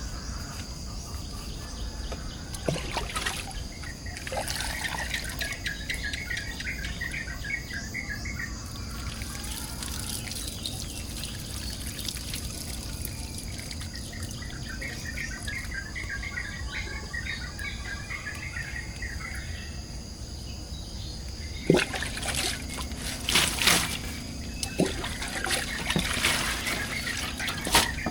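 Rural outdoor ambience: a steady trickle of water under a constant high insect drone, with a bird trilling in two long runs of rapid chirps. A few sharp knocks come near the end.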